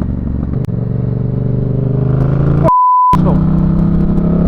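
Motorcycle engine running under the rider and pulling up through the revs, its pitch climbing slowly. About two and a half seconds in, a censor bleep, a steady beep of about half a second, briefly replaces all other sound.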